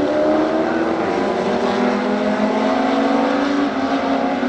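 A historic racing sports car's engine under hard acceleration. Its pitch climbs steadily and dips at two upshifts, about a second in and again late on.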